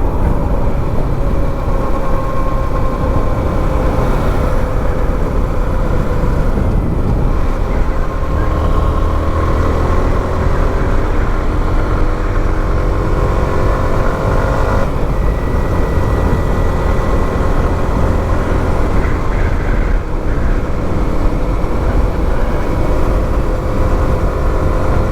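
Motorcycle engine running under way, its pitch drifting slowly and changing about halfway through, with a heavy wind rumble on the microphone.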